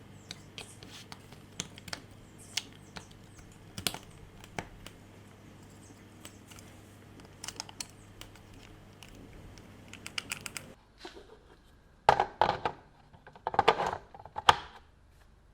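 A string of light clicks and taps, like small hard parts being handled, over a steady low hum. The hum stops about two-thirds of the way in, and then come a few louder scraping knocks.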